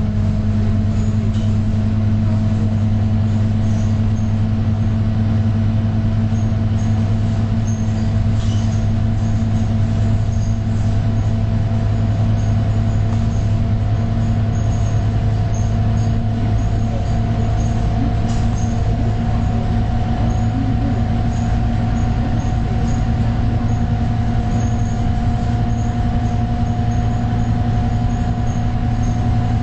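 Scania K230UB bus engine running steadily under way, a low drone with a higher whine that slowly rises in pitch.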